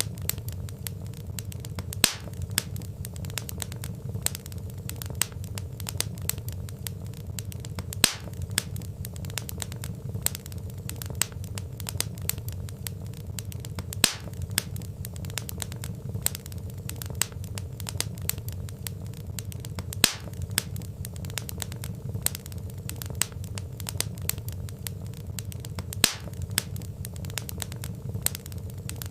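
Log fire crackling, with a steady low rumble under dense small snaps and a louder pop about every six seconds.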